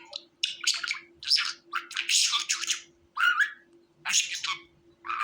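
Budgerigar chirping and warbling in a quick series of about ten short calls, some sweeping up or down in pitch, over a faint steady hum.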